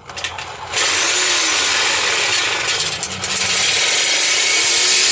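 Reciprocating saw (Sawzall) with a dull fire-and-rescue blade cutting through a car's exhaust pipe to take off the muffler. It runs as a loud, steady cutting noise that starts under a second in.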